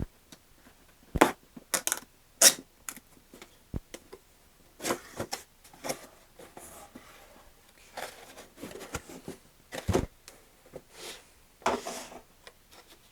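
A cardboard model-aircraft box being opened and handled: irregular taps, scrapes and rustles of cardboard and packing, with a few sharper knocks.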